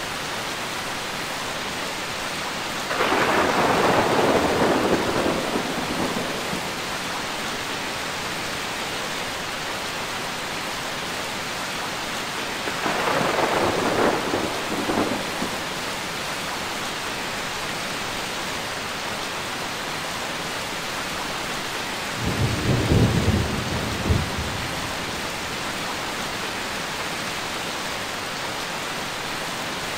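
Steady rain with three rolls of thunder: one about three seconds in, one around thirteen seconds in, and a deeper one with a couple of sharper cracks about twenty-two seconds in.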